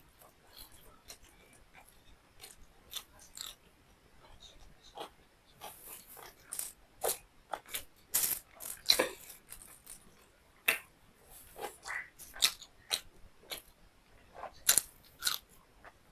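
Close-up mukbang eating sounds: a mouth chewing beef liver and rice, with irregular wet smacking clicks, several louder ones around the middle and near the end.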